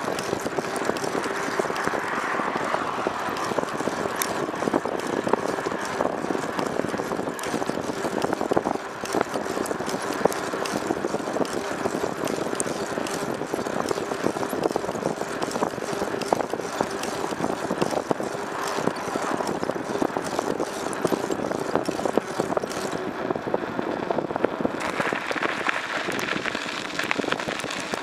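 Steady running noise of a vehicle in motion, with a faint continuous hum and constant fine rattling and ticking.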